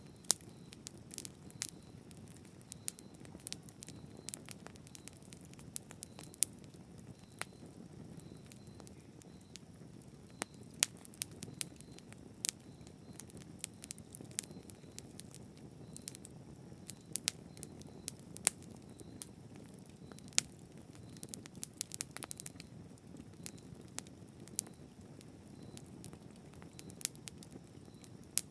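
Campfire burning steadily: a soft low rumble of flames with frequent sharp, irregular crackles and pops from the burning wood.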